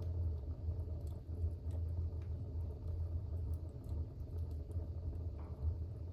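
Fire burning in a fireplace: a steady low rumble with faint, scattered crackles and pops.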